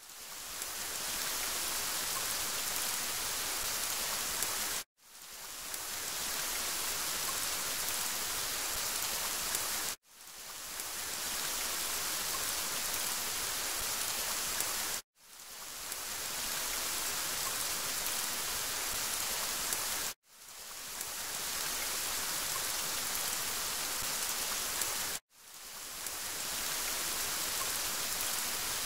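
Steady hiss of rain, a recorded rain sound that cuts out for a split second about every five seconds and fades back up each time: a short rain clip played on a loop.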